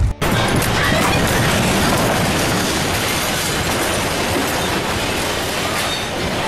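Storm noise: a steady, dense rushing that starts abruptly after a brief cut.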